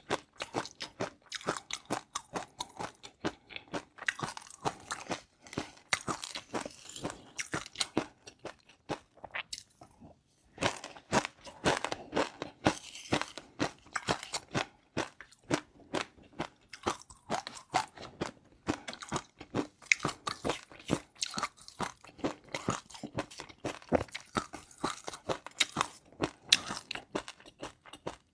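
Close-miked eating of crunchy food: rapid, repeated crisp crunches and chewing, with a short pause about ten seconds in before the crunching resumes.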